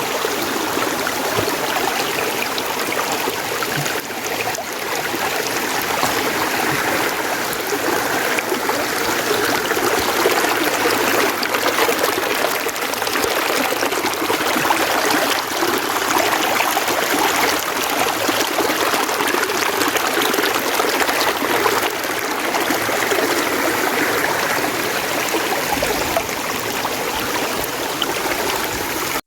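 Mountain stream water flowing and splashing over rocks in a steady, continuous rush with a fine trickling texture.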